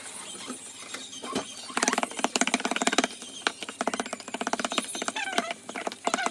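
Banana muffin batter being mixed by hand in a bowl: a rapid run of clicking and scraping of the utensil against the bowl, starting about two seconds in.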